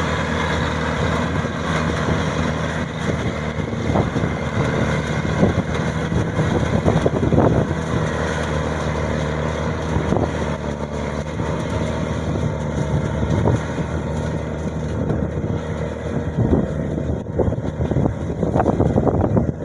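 Engine of a Maxxi 85 combine harvester running steadily, with a few short louder rushes of noise.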